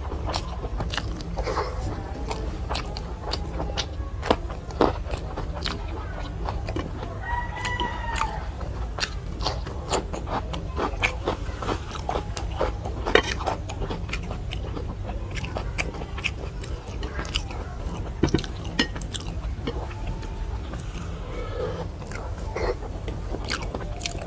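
Close-up chewing and wet mouth sounds of someone eating rice and soft vegetable dishes, many small clicks and smacks throughout over a low steady hum. A chicken calls once in the background about eight seconds in.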